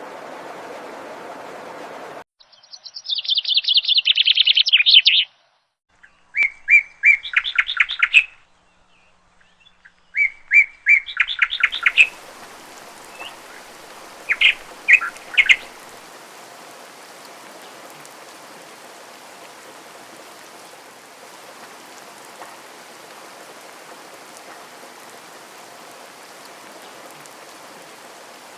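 Songbirds singing in bursts of rapid, high trilled phrases, four or five phrases a few seconds apart. Steady water noise cuts off abruptly about two seconds in. A similar steady rushing hiss returns about twelve seconds in under the last phrases and carries on.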